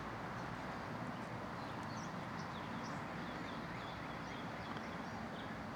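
Birds chirping and calling faintly, many short scattered chirps, over a steady background hiss.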